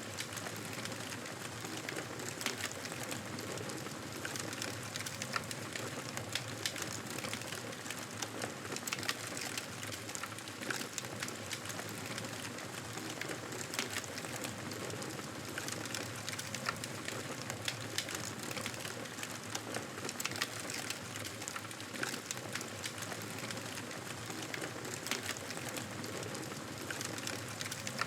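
Wood fire crackling in a fireplace: a steady hiss with frequent irregular pops and snaps.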